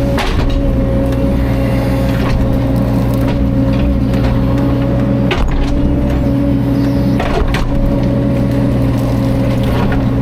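Diesel engine of a Caterpillar 305.5 mini excavator running steadily under work, with a few sharp knocks and cracks of wood or the bucket striking, one near the start, one about five seconds in and one about seven seconds in.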